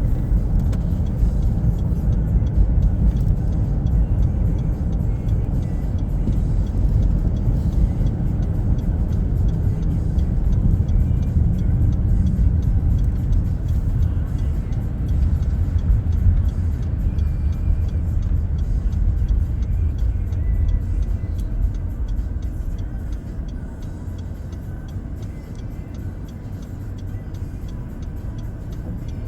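Car driving on a snowy road, heard from inside the cabin: a steady low rumble of road and engine noise that eases off and grows quieter after about twenty seconds as the car slows.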